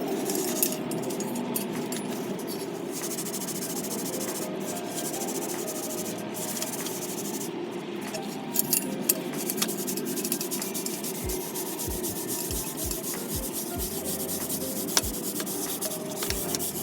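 Stainless steel motorcycle muffler being polished, a steady rubbing scrape against the metal, with a few short low knocks in the second half.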